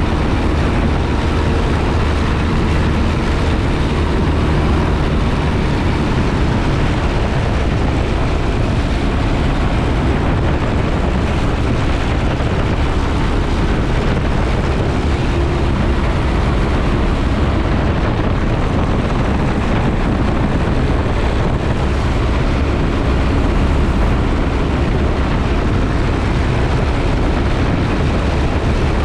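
Piper J-3 Cub's engine and propeller running steadily, heard from inside the cockpit: a constant low drone with a rushing noise over it.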